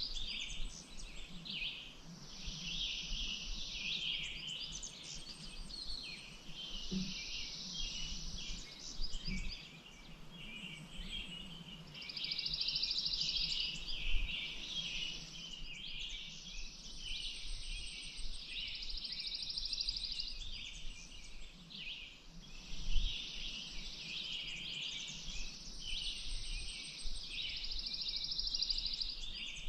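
A dense chorus of small birds chirping and twittering, with a buzzy trill repeating every few seconds, each trill lasting two to three seconds. A few brief low thumps are heard, the loudest about 23 seconds in.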